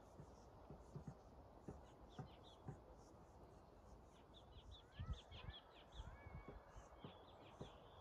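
Faint birdsong from small songbirds: scattered chirps, a quick run of calls in the middle and a few short rising whistles, over a quiet outdoor background with scattered soft knocks.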